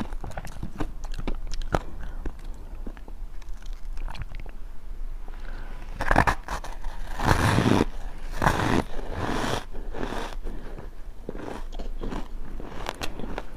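Refrozen ice chunks dusted with matcha powder being bitten and chewed close to the microphone: a run of sharp crackling crunches, with the loudest, fullest bites about six to ten seconds in.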